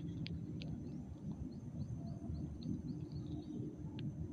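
A bird calling in a quick run of short high chirps, about four a second, over a steady low rumble, with a few sharp clicks.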